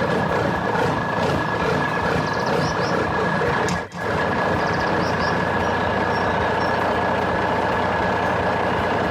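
Heavy machinery engine sound effect running steadily, with a steady high tone over it, briefly cut off about four seconds in.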